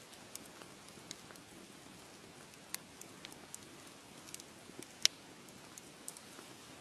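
Wood fire crackling: a low steady hiss with scattered sharp pops and snaps, the loudest about five seconds in.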